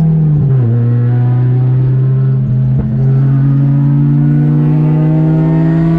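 Mazda MX-5 race car's four-cylinder engine pulling under load. The revs drop sharply about half a second in, then climb slowly and steadily.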